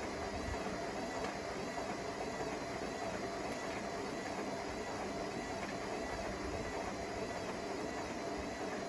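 Hotpoint Smart Tech WMFUG742 washing machine spinning, with a steady whir of motor and drum and a high whine that wavers up and down a couple of times a second.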